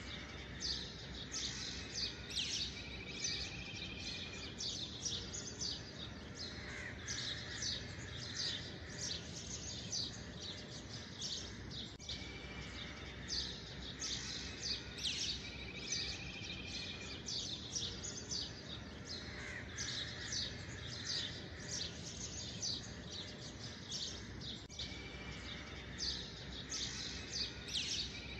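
Small birds chirping and twittering steadily, with a short trill that comes back about every 12 to 13 seconds.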